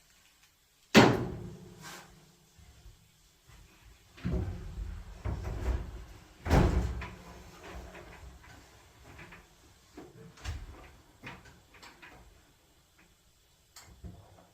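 Hollow knocks and clunks from a Samsung clothes dryer's drum and sheet-metal cabinet being jostled while a hand works inside to fit the drive belt onto the motor. The loudest bang comes about a second in, a run of clunks follows from about four to seven seconds, and smaller knocks come near ten seconds.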